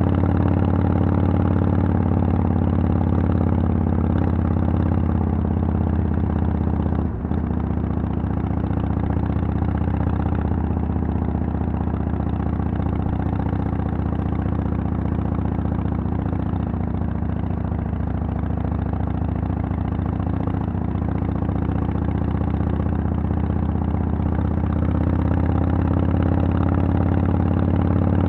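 Harley-Davidson Sportster XL883L's 883 cc air-cooled V-twin running steadily through Vance & Hines Twin Slash exhaust pipes, with one brief break in the sound about seven seconds in.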